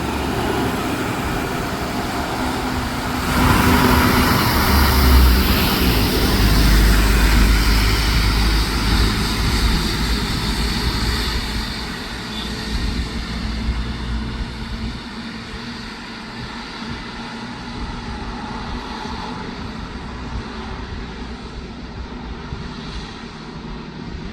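Heavy truck passing on the highway: engine rumble and tyre noise swell suddenly about three seconds in, stay loud for several seconds, then fade slowly as it moves away.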